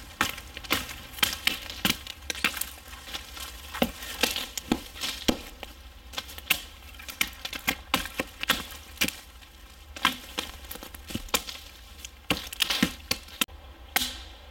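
Dry wood cracking and snapping in sharp, irregular cracks, about one or two a second.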